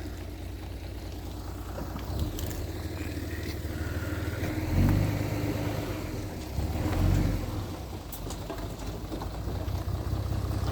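Heavy earthmoving machine's diesel engine running with a steady low rumble, surging louder twice around the middle.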